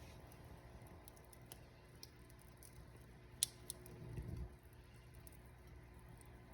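Wood fire in a fireplace crackling softly over a low rumble of flames, with scattered small ticks and one sharper pop about three and a half seconds in.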